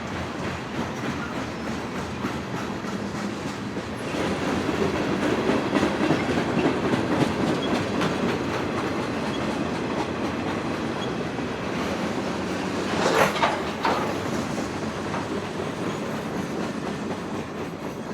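Freight train rolling past: a steady rumble and clatter of wheels on the rails, growing louder about four seconds in. A brief sharper, louder noise comes about two-thirds of the way through, and the sound fades near the end.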